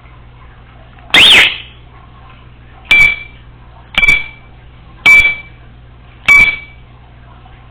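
Congo African grey parrot giving one loud whistle that rises and falls, then four short, sharp beep-like chirps about a second apart, resembling an alarm beep such as a smoke detector's low-battery chirp.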